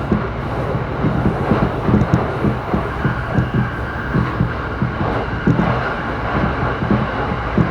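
JR Saikyo Line commuter train running at speed, heard from inside the passenger car: a steady rumble of wheels on rails with a rapid, uneven run of low thumps.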